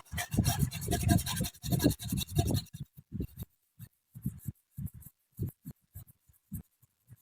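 Scraping and rubbing for about three seconds, then scattered light knocks and clicks, as from parts being handled and worked on by hand.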